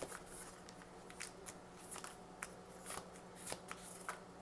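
A tarot card deck being shuffled by hand: irregular soft clicks and flicks of cards, about three a second, over a faint steady hum.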